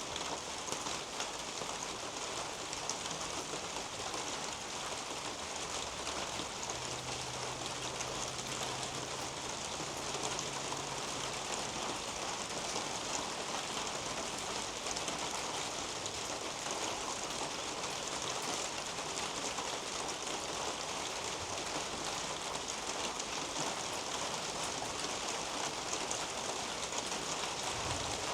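Steady rain falling on garden leaves and a roof overhead, an even hiss dotted with fine drip ticks. A faint low hum joins about seven seconds in and lasts several seconds.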